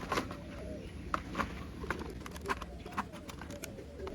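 Irregular small plastic clicks and knocks as the front and back parts of a toy car-carrier truck are handled and pushed together.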